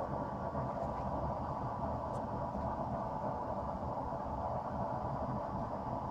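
Blacksmith's forge running: a steady rushing noise, with no hammer blows, while the steel heats.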